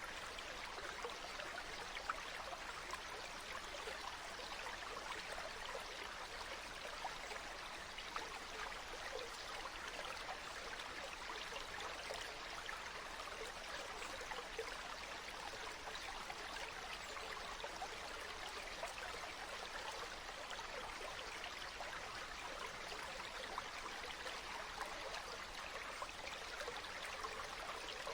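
Stream water flowing steadily, a continuous even babble with fine splashing flickers.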